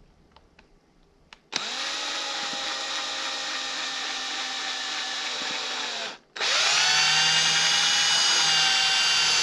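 Electric drill boring a hole into a turned wooden piece. It runs steadily for about four seconds, stops briefly, then starts again louder and keeps running.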